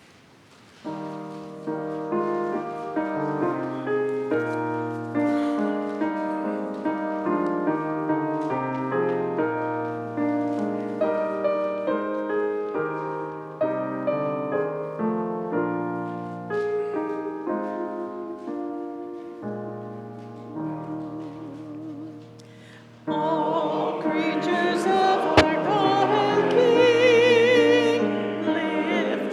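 Piano playing a hymn introduction in slow chords. About three quarters of the way through, a congregation starts singing the hymn with the piano, and the sound gets louder.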